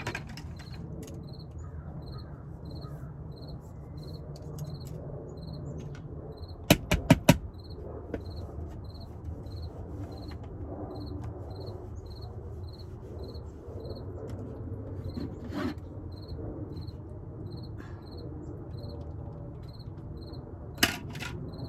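A cricket chirping steadily, about two chirps a second, over a low hum. About seven seconds in comes a quick run of four sharp clacks, the loudest sounds here, with a few more clicks near the end.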